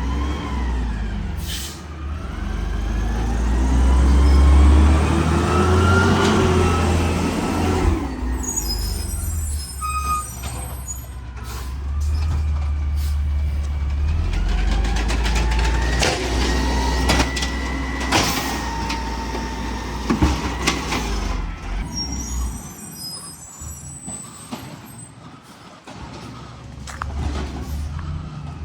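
Garbage truck's engine running and revving up and down, with two stretches of high hiss and a few sharp knocks.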